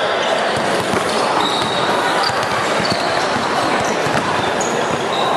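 Indoor basketball play: a ball bouncing repeatedly on the court, with short high squeaks and scattered voices in the background.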